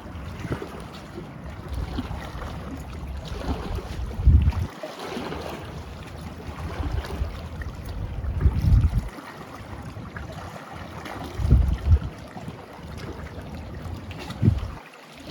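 Wind buffeting the microphone: a steady low rumble with four stronger gusts spread through the stretch.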